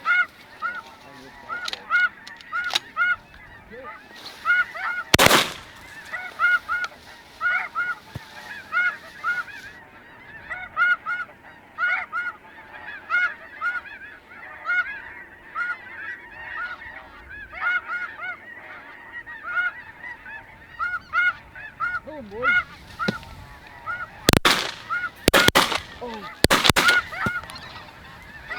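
Snow geese honking constantly in quick, shrill calls. One sharp shotgun blast cuts through about five seconds in, and a quick volley of several shots follows near the end.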